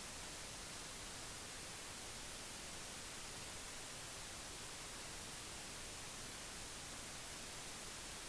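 Steady, even hiss like static or recording noise, with no other sound in it.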